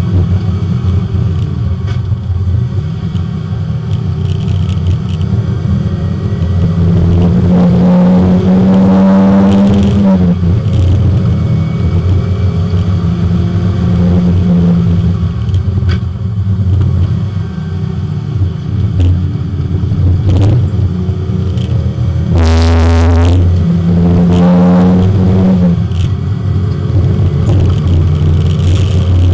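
Porsche 924 race car's four-cylinder engine at full effort, heard from inside the cabin, revs climbing and falling repeatedly through the lap, with a sharp rev surge about 22 seconds in.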